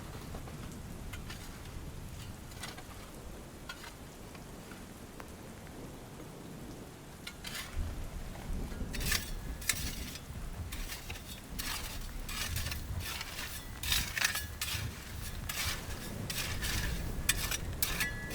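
Steady rain, joined about seven seconds in by a run of sharp, irregular clicks and clatter from objects being handled close by.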